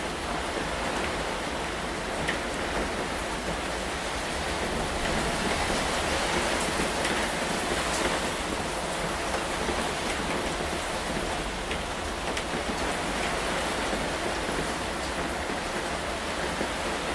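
Steady rain falling, with scattered sharp drop ticks over an even hiss of rainfall. It swells slightly in the middle.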